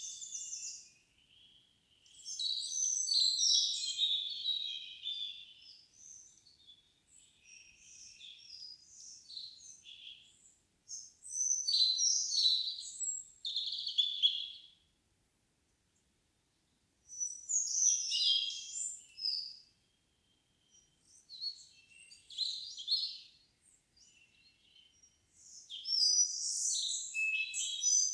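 Forest songbirds singing: high, twittering phrases of two to four seconds, separated by short pauses with fainter calls between them.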